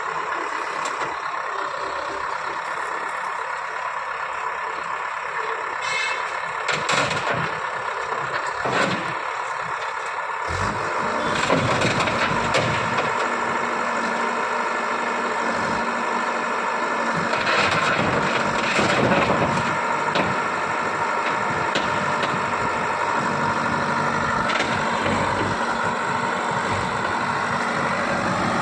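Heavy vehicle engine running steadily, growing louder and deeper about ten seconds in.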